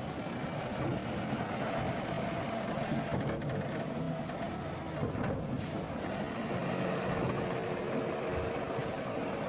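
Heavy diesel earthmoving machinery running steadily, with a short sharp click a little past the middle and another near the end.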